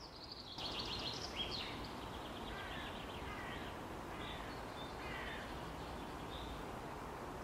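Birds chirping in series of short, high calls over a steady background of outdoor noise, quiet overall.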